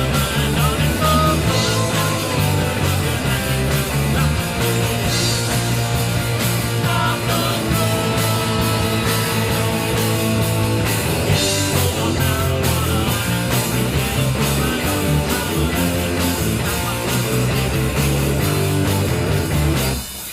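Rock band playing live: electric guitars, bass guitar and a drum kit.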